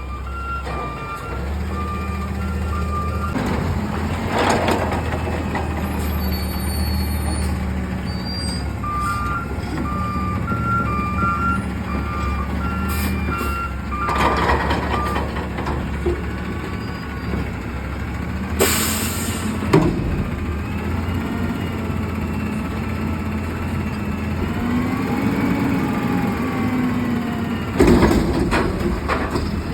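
Front-loader garbage truck's diesel engine running, with repeated reversing beeps in several stretches and a short air-brake hiss about two-thirds of the way through. Near the end the engine note rises and falls as the hydraulics work, followed by a loud bang.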